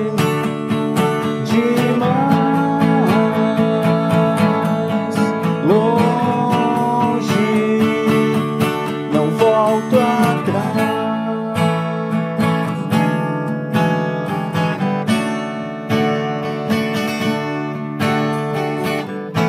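Live pop-rock band playing an instrumental passage with no singing: strummed acoustic guitar chords under a lead melody with notes bent up and down, several bends in the first half.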